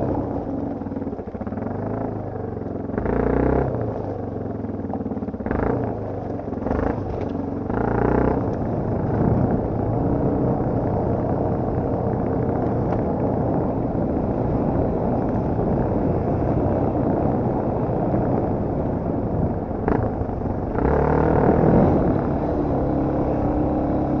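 Enduro dirt bike engine running while being ridden, with bursts of throttle about 3 seconds in, several between 5 and 8 seconds, and again around 21 seconds.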